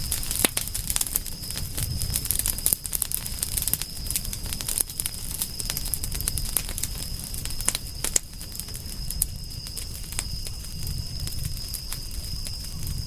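Wood fire crackling with frequent sharp pops over a low steady rumble, with a steady high-pitched tone in the background.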